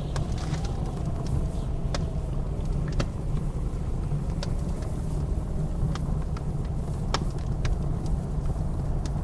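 Wood fire crackling with irregular sharp pops, over the steady low roar of blizzard wind with a faint wavering howl.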